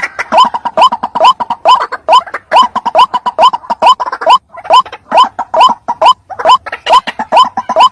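White-breasted waterhen (ruak-ruak) lure call: a rapid, unbroken run of short, harsh notes, each rising in pitch, about two to three a second.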